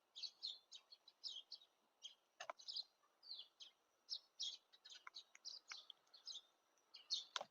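Small songbirds chirping: a continuous run of short, high chirps, several a second, with a couple of soft knocks in between.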